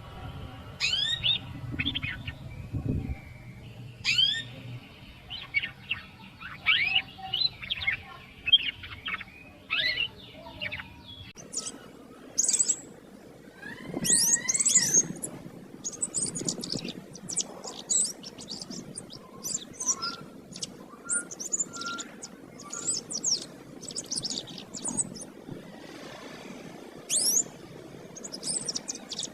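Domestic canary singing vigorously: quick phrases of short, sharply falling chirps and trills.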